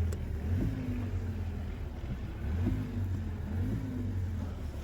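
2025 Mazda CX-5's 2.5-litre four-cylinder engine running at a steady low hum, its pitch rising and falling slightly a few times.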